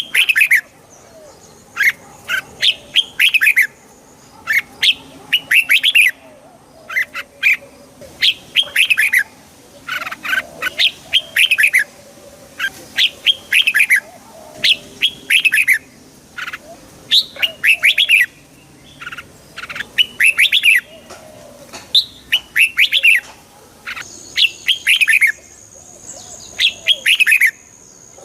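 Red-whiskered bulbuls singing: short, quick phrases of chirpy notes, repeated every second or two.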